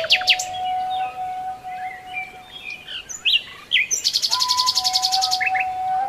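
Songbirds chirping with quick rising calls, and a fast, high trill about four seconds in, over long held notes of a ney (end-blown reed flute) that pause for a few seconds and come back near the end.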